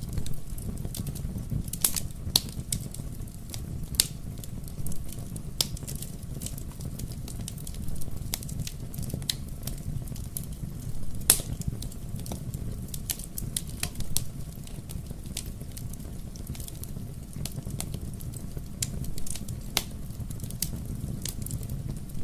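Wood fire crackling in a fireplace: irregular sharp pops and snaps over a steady low rumble of the flames, with a louder pop about 11 seconds in.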